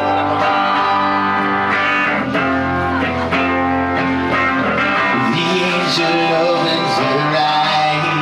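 Live rock band playing an instrumental passage led by guitar, with sustained ringing chords over a steady low end.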